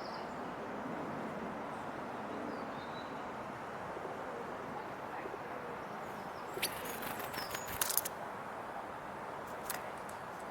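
Great tits landing on a handheld camera: a cluster of sharp scratchy taps and clicks from their feet on the camera body, loudest about eight seconds in, with one more tap near the end. Under it a steady background hiss and a few faint high chirps.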